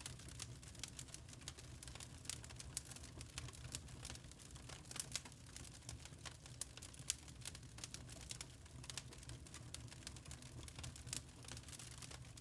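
Burning charcoal crackling: many small, sharp pops and ticks at an irregular pace over a low steady hum.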